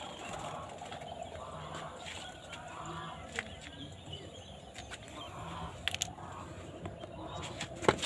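Faint bird calls in the open air, with a few sharp clicks about halfway through and near the end.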